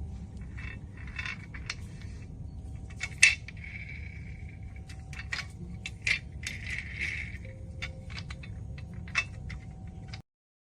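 Irregular metallic clicks and clinks of hard metal parts being handled, over a steady low hum. The sharpest clink comes about three seconds in and another about six seconds in.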